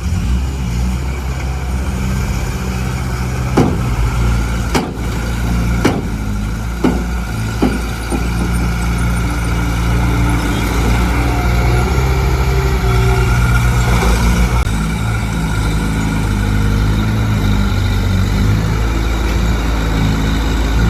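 Diesel engine of heavy earthmoving machinery running steadily, its pitch stepping up and down. Several sharp knocks come in the first half.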